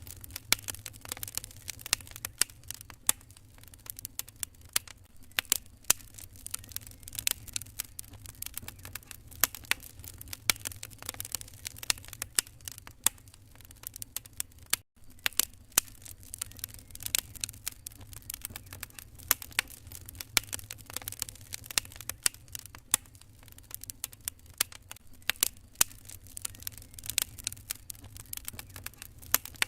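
Wood fire crackling in a fireplace: a dense, irregular run of sharp pops and snaps over a steady low rumble. The sound cuts out for an instant about halfway through.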